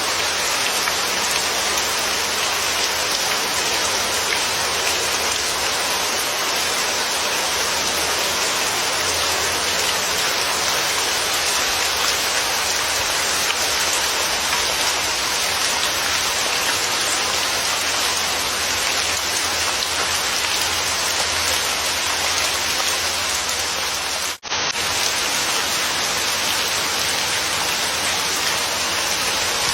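Steady rain falling, an even dense hiss of drops. The sound cuts out for a split second about 24 seconds in, then carries on unchanged.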